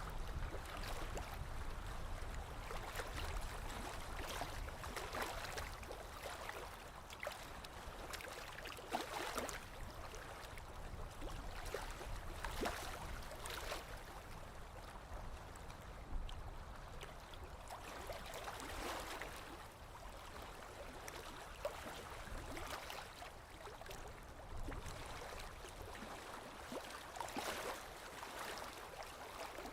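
Small lake waves lapping against the shore, a soft wash broken by gentle splashes every few seconds.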